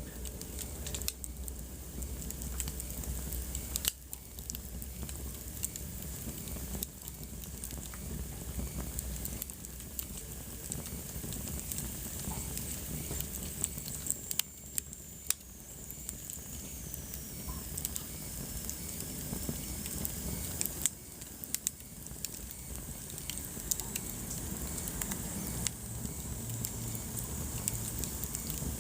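Wood fire burning in a fireplace, crackling with frequent irregular sharp pops over a soft steady hiss. A faint high whistle slides down in pitch around the middle.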